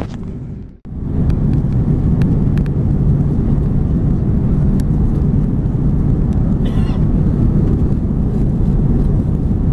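Airbus A330-200 cabin noise on approach: a loud, steady low rumble of engines and rushing air. The sound fades and cuts out almost completely just under a second in, then comes straight back.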